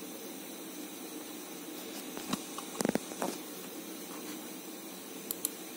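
Steady background hiss with a few faint short clicks and one brief louder clatter about three seconds in.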